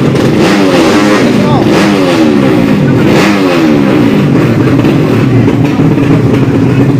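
Modified 200cc drag-bike engines accelerating hard. The pitch climbs again and again as they shift up through the gears over the first four seconds or so, above a steady engine drone.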